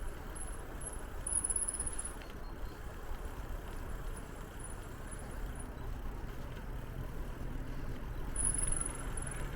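Steady rumble of a bicycle ride: tyres rolling and the bike rattling, with two brief high-pitched squeaks, one about a second in and one near the end.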